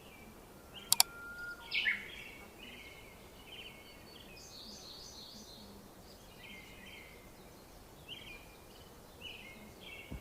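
Small birds chirping in short repeated phrases, with two sharp clicks close together about a second in.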